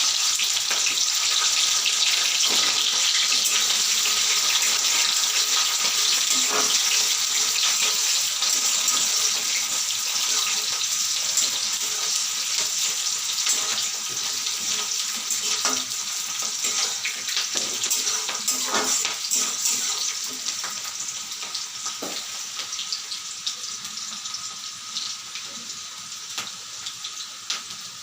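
Chopped onions sizzling in hot mustard oil in a kadai: a steady frying hiss that slowly dies down, with a few light knocks of the spatula.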